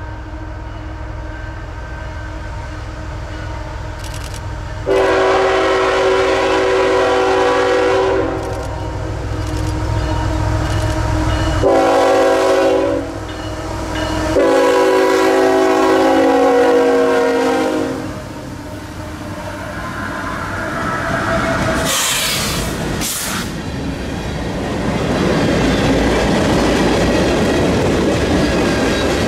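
CSX freight train passing: the lead GE diesel locomotive's air horn sounds a long blast about five seconds in, a short one near twelve seconds and another long one soon after, for the grade crossing, over the low rumble of the diesel engines. A brief high squeal follows, then tank cars roll by with steady wheel-on-rail clatter.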